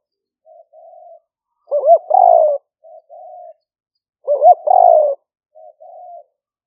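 Spotted dove cooing. The call phrase comes twice, about two and a half seconds apart; each is a quick double note running into a longer coo, followed by softer short coos.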